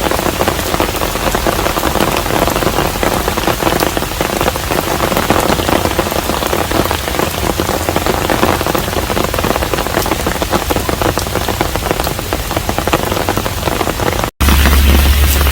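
Steady rain falling on a Korean hanok, with many individual drops heard as small ticks in the continuous hiss. Near the end the sound cuts out for an instant, then returns with a strong low hum underneath.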